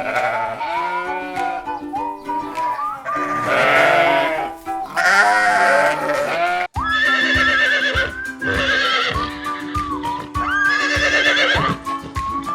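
Livestock bleating in quavering, wavering calls over background music. It breaks off abruptly about halfway through, and music with a steady beat and a held drone follows, with more animal calls over it.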